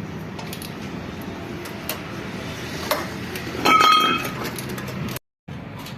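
Tractor engine running with a steady low hum and scattered light clinks. About four seconds in, a brief high-pitched tone lasting about half a second is the loudest sound.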